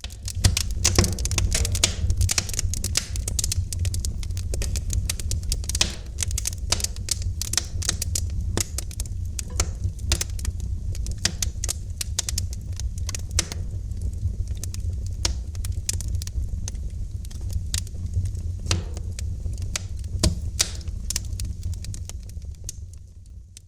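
Wood fire in a fireplace crackling: dense, irregular sharp pops and snaps over a steady low rumble of the burning fire.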